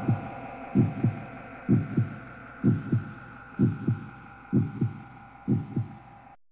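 Heartbeat sound effect: paired low thumps, lub-dub, about once a second, over a steady droning tone. Both fade steadily and cut off suddenly near the end.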